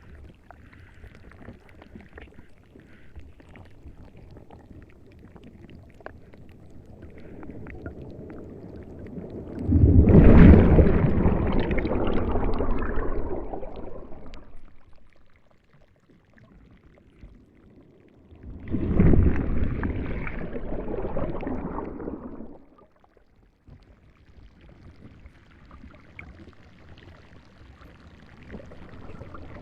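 Moving water, with two louder rushing surges that each build quickly and die away over about four seconds, about ten and nineteen seconds in.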